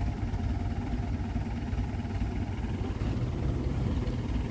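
Truck engine idling steadily while stopped.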